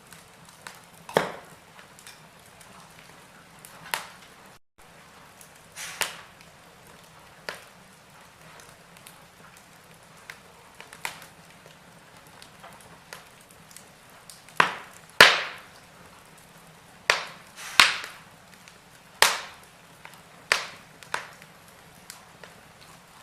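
Wood fire burning in a fireplace, crackling with irregular sharp pops from the logs. The pops come sparsely at first, then several louder ones follow in quick succession in the second half.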